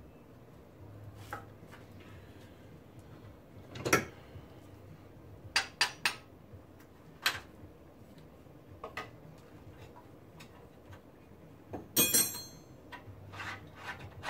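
Scattered metallic clanks and clinks of hand tools and steel parts being handled while stripping a car's front suspension. The loudest is a short ringing clatter about twelve seconds in, with a quick run of three clinks around the six-second mark.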